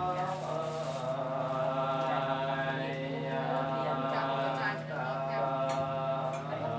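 Buddhist chanting in Pali by a group of voices in unison, long drawn-out notes over a steady low drone, with a short pause for breath about five seconds in.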